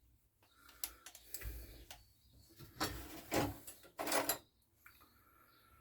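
Hand tools being handled and rummaged through on a workbench. There are a few light clicks about a second in, then several louder clattering knocks around three to four seconds in.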